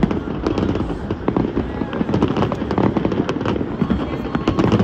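Fireworks going off in quick succession, a dense run of sharp pops and crackles, with a large crowd talking underneath.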